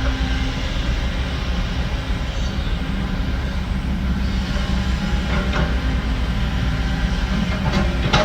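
Heavy diesel earthmoving machinery running steadily, with a few sharp metal clanks about five and a half seconds in and again near the end.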